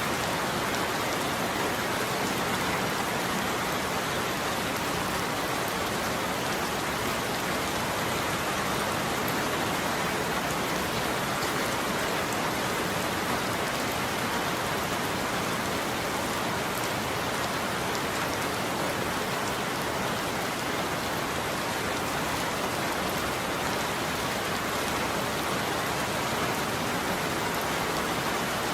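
Steady rain falling on a surface, an even, unbroken hiss of drops with fine pattering, at the same level throughout.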